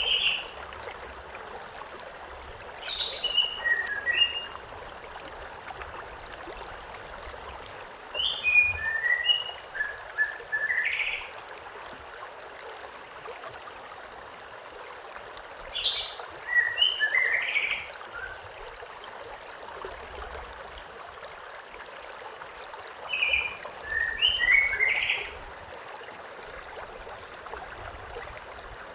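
Steady rushing of a flowing river, with a bird singing a short phrase of quick chirped notes four times, about every seven seconds.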